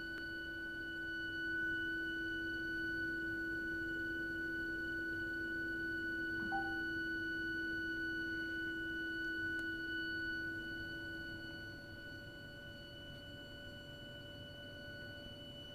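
Continuous high-pitched shrieking whistle from a heating system's heat interface unit (HIU) and its pipework: a steady shrill tone with evenly spaced overtones over a lower hum that fades about three-quarters of the way through. An abnormal fault noise that runs for hours even when no heating or hot water is being used.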